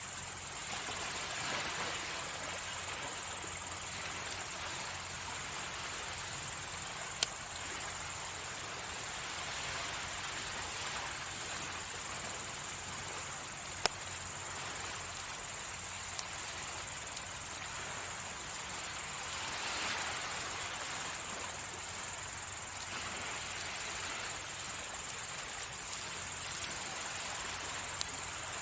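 Crickets chirring steadily, with waves washing in as slow soft swells and a few sharp single pops from a wood campfire.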